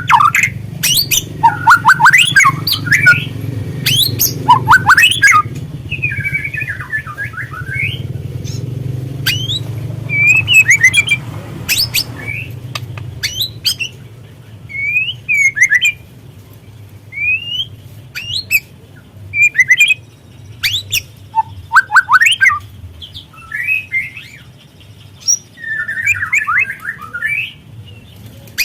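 White-rumped shama (murai batu) calling: dense, harsh chattering runs and sharp clicks for about the first twelve seconds over a low steady hum, then sparser short rising and falling notes.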